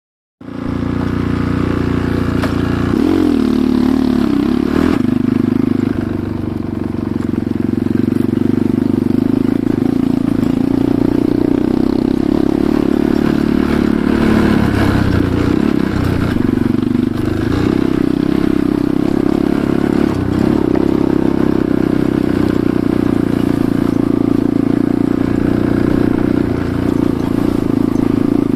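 Enduro motorcycle engine running under way, its revs rising and falling with the throttle.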